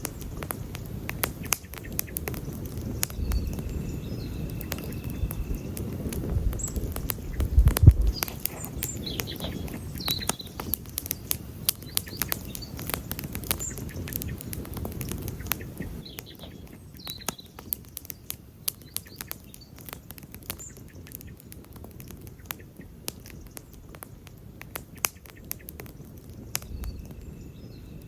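Wood campfire crackling, with many sharp pops and snaps over a low rumble that eases about halfway through. A few short bird chirps are heard in the background.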